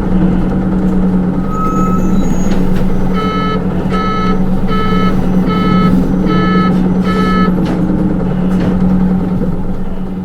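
Inside a Hino Rainbow II city bus: the engine hums steadily while a buzzer beeps six times, evenly spaced a little under a second apart. The beeps are typical of the bus's reversing alarm.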